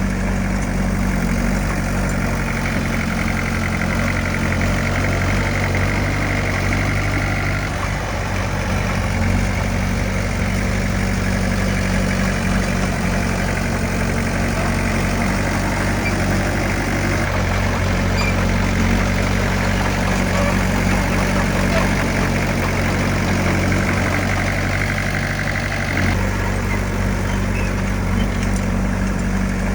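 Heavy diesel engine of earthmoving machinery running steadily under a continuous low engine drone, its note changing about a quarter of the way in and again near the end.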